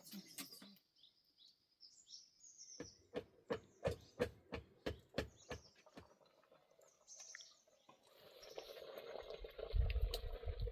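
A bird chirps a few short falling notes, then a run of sharp knocks comes at about three a second. Near the end a rushing noise swells, with heavy low thumps.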